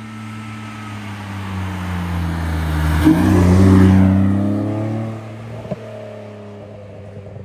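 BMW E46 Compact's M54B25 straight-six, fitted with an N54 intake manifold, revving as the car passes. The engine note grows louder to a peak about halfway through, with the revs climbing, then fades.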